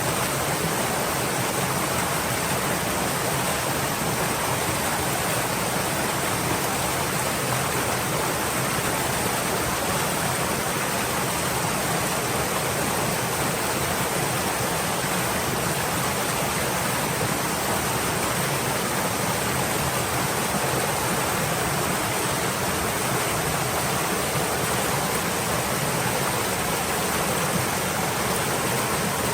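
Stream water flowing steadily over rocks, an even rushing hiss with no breaks or changes.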